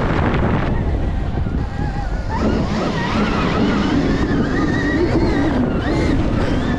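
Wind buffeting the microphone on a moving Stark Varg electric dirt bike. From about two seconds in, the electric motor's whine comes through, its pitch rising and falling with the throttle.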